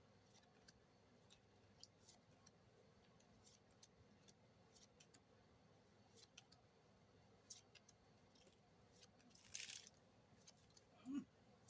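Quiet handling of trading cards and booster packs: faint, scattered clicks and ticks, with a brief crinkle of a foil pack wrapper about ten seconds in.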